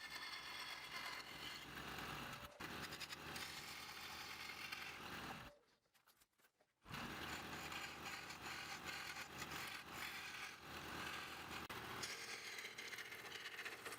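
Turning tool scraping and cutting wood spinning on a lathe, a steady hiss that breaks off for about a second near the middle and then resumes.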